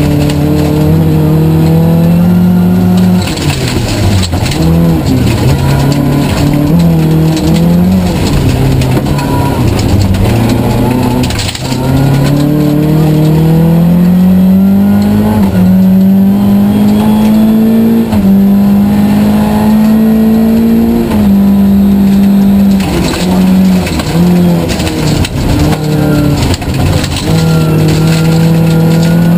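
Volvo 940 rally car's engine at full stage pace, heard from inside the cabin: the revs climb, step down briefly at each gear change and fall off and pick up again for corners, over steady gravel road noise.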